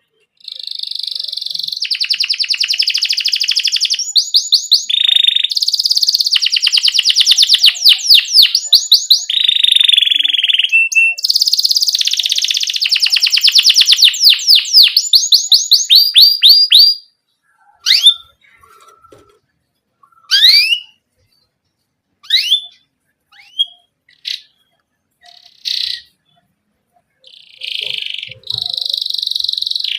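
Domestic canary in full song: long rapid rolling trills for more than half the time, then a run of short separate chirps and rising whistles with gaps between them, and the trills start again near the end.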